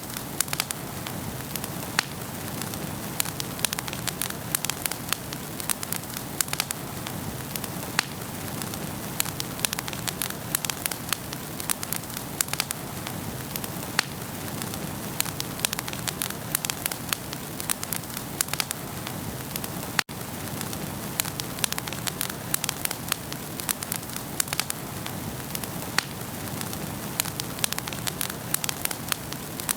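Wood fire burning in a fireplace, crackling with frequent sharp pops and snaps over a steady hiss of flames. The sound drops out for an instant about two-thirds of the way through.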